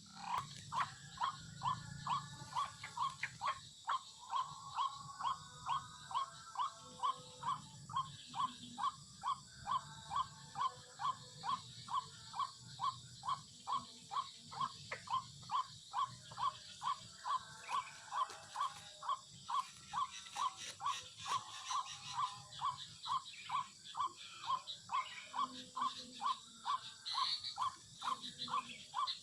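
White-breasted waterhen (ruak-ruak) call: short, harsh notes repeated monotonously at about two a second.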